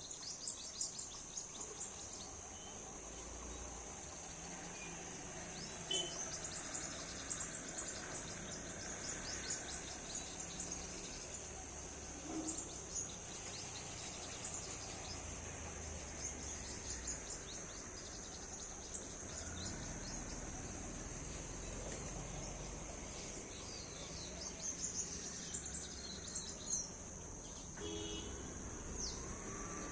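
Steady high-pitched drone of an insect chorus, crickets or similar, with scattered short bird chirps over it throughout.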